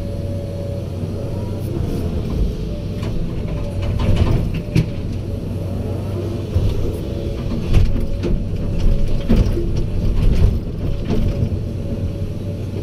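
Heavy diesel machinery running steadily with a low engine hum, broken by sharp metallic clanks and knocks, several of them in the second half.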